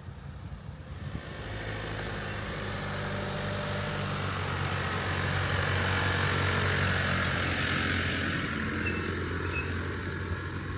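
A vehicle driving: a steady low engine hum under tyre and road noise that builds over the first couple of seconds and stays up.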